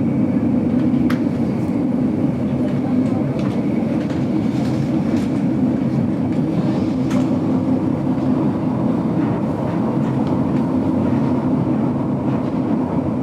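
Steady rumble of the GoldenPass Belle Époque train running, heard from inside a vintage carriage, with a few faint clicks from the wheels on the track.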